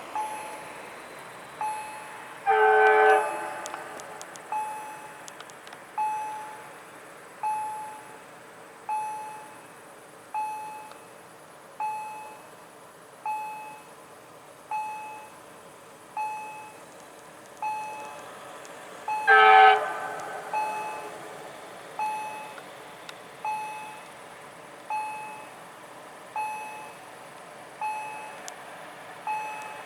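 A level-crossing warning bell strikes steadily about once every one and a half seconds. An approaching Siemens Vectron electric locomotive sounds its horn twice, each blast about a second long, the two some seventeen seconds apart.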